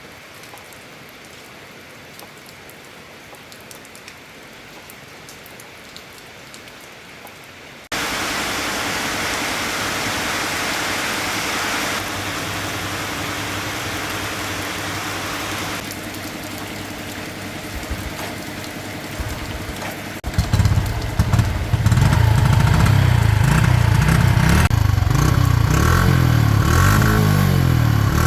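A steady hiss starts suddenly about a quarter of the way in. Then a small motorcycle engine starts, a few sputters about two-thirds of the way in, and runs loudly and unevenly.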